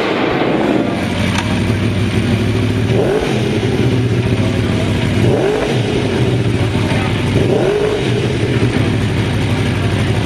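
Aprilia RSV4 Factory's V4 engine idling through an aftermarket slip-on exhaust, blipped three times, each rev rising and dropping back to idle.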